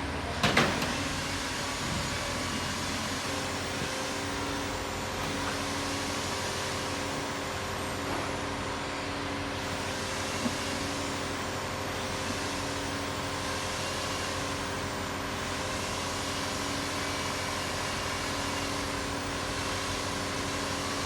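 Steady mechanical hum of workshop machinery, with a sharp metallic clank about half a second in and a lighter knock about ten seconds later.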